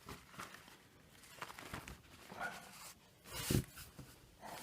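Napkins being handled and laid out: a few short rustles, the loudest about three and a half seconds in.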